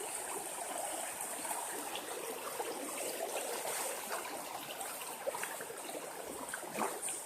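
River stream flowing steadily over rocks. Near the end, a squirrel gives high, falling chirps.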